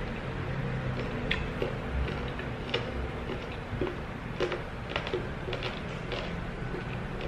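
Close-miked mouth sounds of chewing meat off braised chicken neck bones: irregular wet clicks and smacks, roughly one a second.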